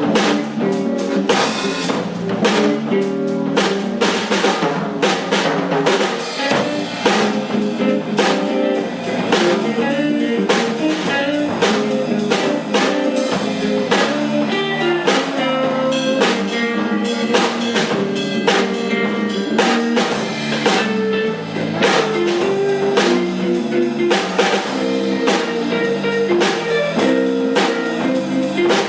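A band playing a song on drum kit and guitar, with a steady, busy drum beat.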